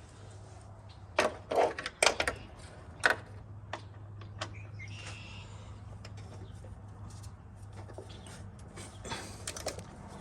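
Irregular sharp clicks and knocks of a hand tool working against metal and plastic as a headlight mounting screw is tightened, in a burst of several about one to three seconds in and another cluster near the end.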